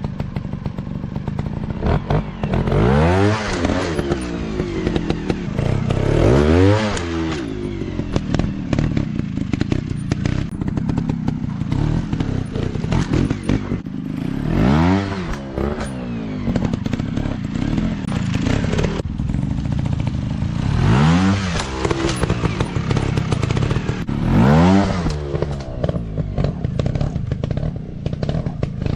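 Dirt bike engines running, revving up and back down about five times in rising-and-falling bursts between steadier running.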